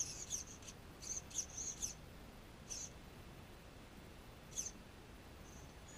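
A small bird chirping: a quick cluster of short, sharp chirps in the first two seconds, then single chirps near the middle and about three-quarters through, over a faint steady hiss.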